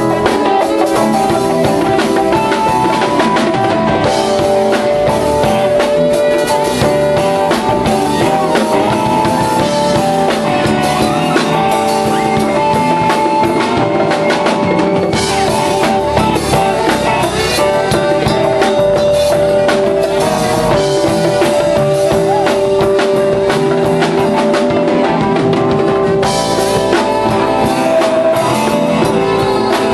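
Band playing an instrumental passage, with drum kit, bass and keyboards under held melody notes; no singing.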